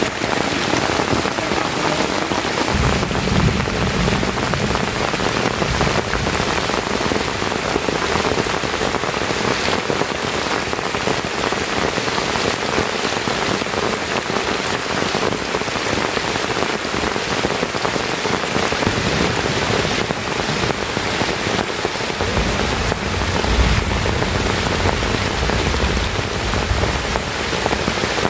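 Heavy rain falling steadily on forest leaves, a dense even hiss. A low rumble joins it about three seconds in and again for several seconds near the end.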